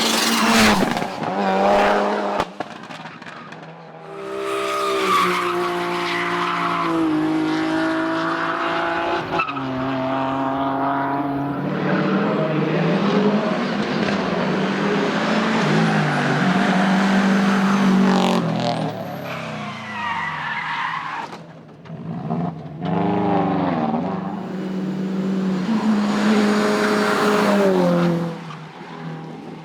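Race cars on a hillclimb course at full throttle, one after another: engines revving up through the gears, the pitch dropping at each upshift, with tyres squealing. One car's note falls away in a long downward glide about two-thirds of the way through.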